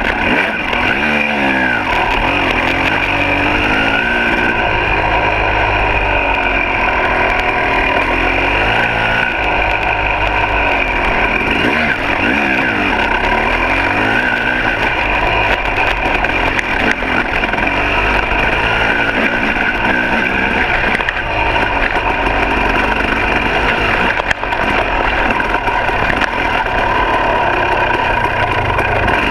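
2006 KTM 300 XC's two-stroke single-cylinder engine being ridden, its revs rising and falling again and again as the throttle is worked.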